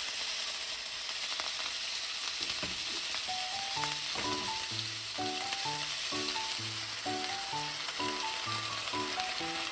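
Chicken skewers sizzling steadily in hot oil in a frying pan, a constant frying hiss. A light melodic background tune of short notes comes in about three seconds in.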